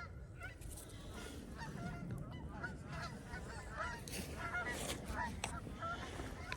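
A flock of geese flying over and honking, many short calls overlapping, growing denser after the first second or so.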